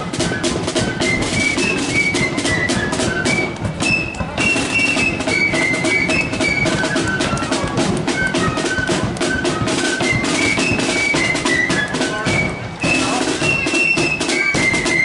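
Marching flute band playing a tune: flutes carry a high melody over snare and bass drums, with brief breaks between phrases.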